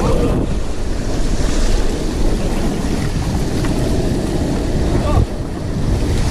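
Water rushing down a raft water slide, with heavy wind buffeting on the action camera's microphone. The noise is loud and steady throughout.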